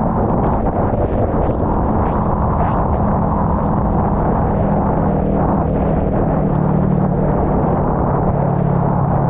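Kawasaki Ninja 400 parallel-twin engine running at steady cruising revs while the motorcycle is ridden, under a steady hiss of wind and wet road noise.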